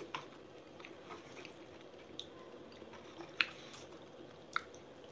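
Quiet chewing of deep-fried tempura, with scattered small clicks of chopsticks against the takeout tray and bowl, two of them sharper and louder in the second half.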